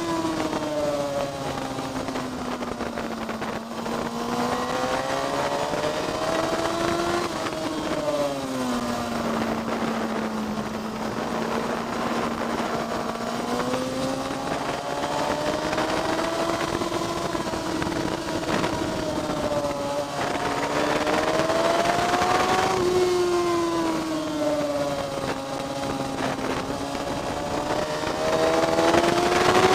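Onboard sound of a vehicle lapping a race track: the engine's pitch climbs under acceleration and falls back again several times as it drives through corners and straights, over steady wind and road noise.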